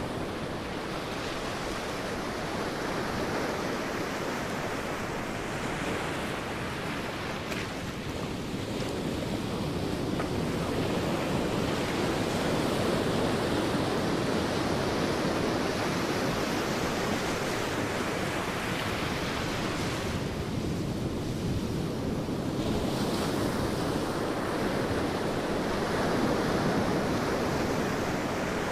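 Sea waves breaking and washing on a beach, a continuous surf that swells and eases over several seconds, with some wind on the microphone.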